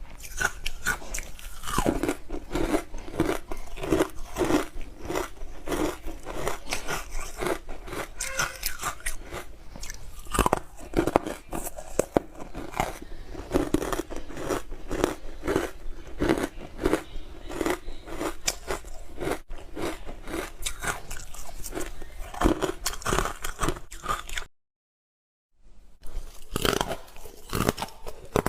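Close-miked biting and chewing of hard frozen ice: rapid, crisp crunches, about two a second, one after another. There is about a second of silence near the end before the crunching resumes.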